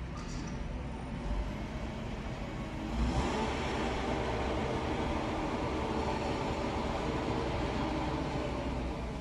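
Heavy vehicle's engine running steadily, then revving up about three seconds in and holding at higher revs.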